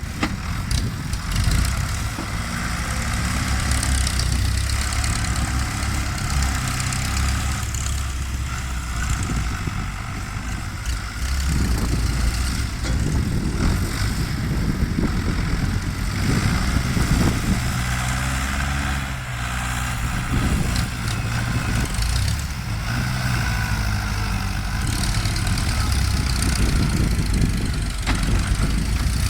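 Ford New Holland farm tractor diesel engine running steadily while working, its engine speed rising and falling now and then.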